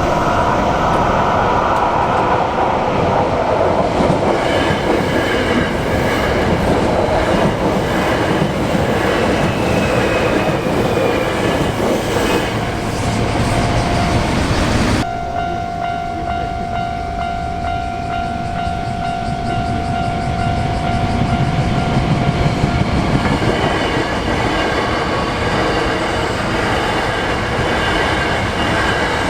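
Hankyu Kyoto Line electric train passing the level crossing, its wheels clattering over the rail joints, with a steady high whine through the middle. The sound changes abruptly about halfway through.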